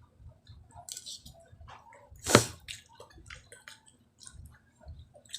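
Eating sounds: wet chewing and small mouth clicks and smacks, with one loud sharp knock a little over two seconds in.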